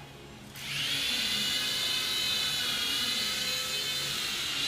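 Toy remote-control helicopter's small electric motor and rotor running with a high whine. It starts about half a second in and then holds steady, wavering slightly in pitch.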